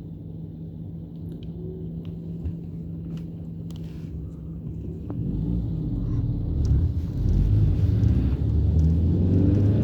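Chevrolet Cruze 1.6 16V petrol engine, catalytic converter removed, heard from inside the moving car: a steady engine note for about five seconds, then a louder low rumble that keeps building as the car picks up speed.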